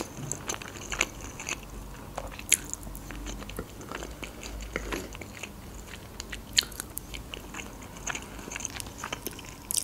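Close-miked chewing of lasagna, with wet mouth sounds and many short, sharp clicks, a few of them louder.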